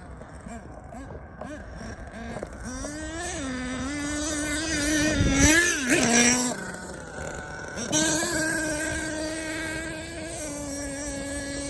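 Small nitro RC monster truck engine (HPI Savage X 4.6) running at high revs: it winds up a couple of seconds in and holds a steady high buzz, is loudest with a brief noisy burst about halfway, backs off, then opens up again and holds before easing off near the end.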